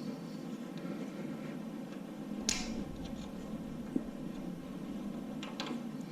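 Light metallic clicks and clinks of engine parts being handled during an engine teardown, the sharpest about two and a half seconds in and a few more near the end, over a steady low shop hum.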